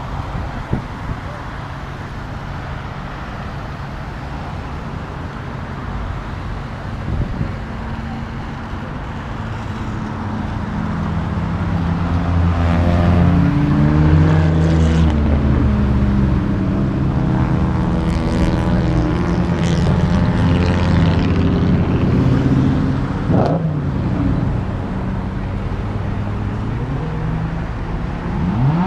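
Several car engines running and passing slowly, the rumble growing louder about halfway through with shifting pitch as they move off. Two short revs follow, the second a quick climb right at the end.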